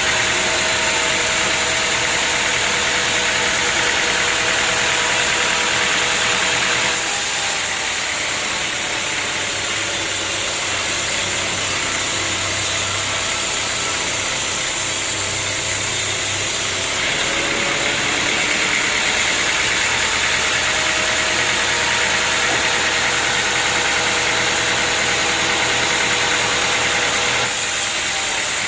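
Sawmill machinery running steadily, with a continuous engine-like hum and hiss. Its tone changes abruptly three times.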